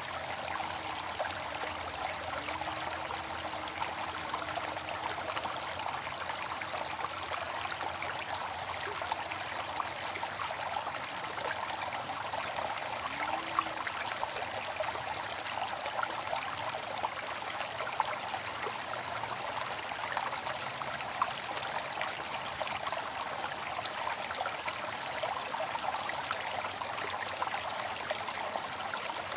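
Water fountain splashing and trickling steadily, with small spikes from individual splashes.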